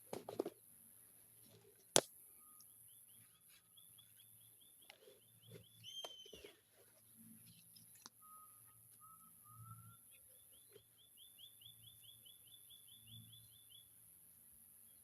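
Wild birds calling: a rapid trill of high repeated notes runs for a few seconds twice, with a few lower whistled notes between. A single sharp click about two seconds in is the loudest sound.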